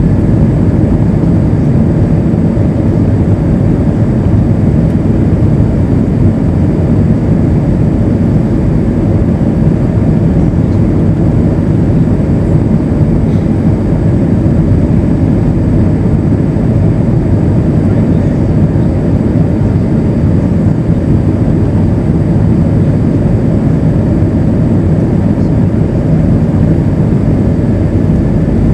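Steady roar of engine and airflow noise inside an Airbus A320's passenger cabin, unchanging throughout.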